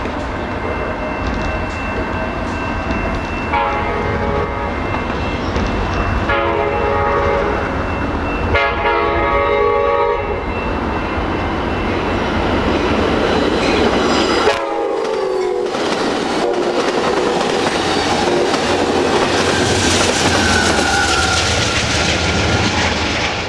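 Amtrak San Joaquin passenger train passing at about 58 mph without stopping. Its horn sounds four separate blasts, the last dropping in pitch as the locomotive goes by, and then comes the rushing clatter of the cars' wheels on the rails.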